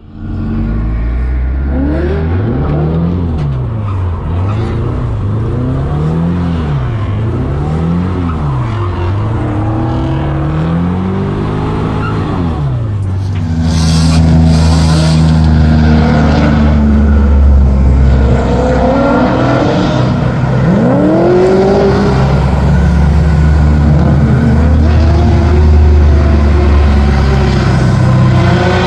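Nissan 240SX S14 drift car's engine revving up and down again and again, then running louder at high revs from about halfway through, with tires squealing as it drifts.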